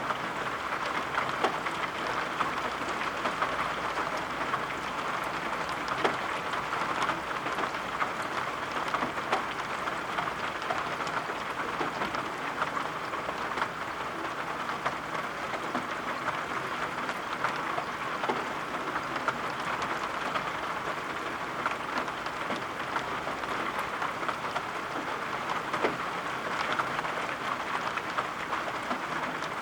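Steady rain, with many small drop taps scattered through it.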